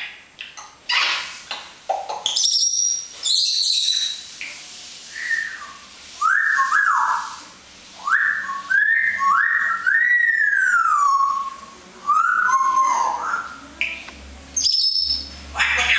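African grey parrot whistling: a few short high whistles, then a string of quick upward-sweeping whistled notes and one longer note that rises and falls in the middle.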